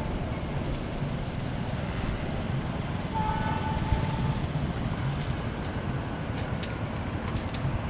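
Low, steady rumble of a distant approaching diesel-electric train mixed with wind on the microphone, with a brief high tone about three seconds in and a few sharp clicks near the end.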